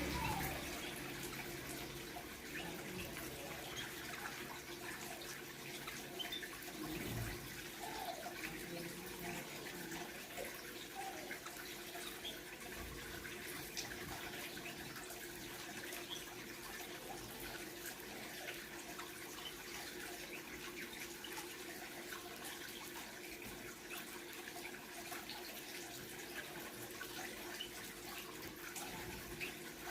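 Steady running, trickling water, with a few faint, short bird chirps now and then.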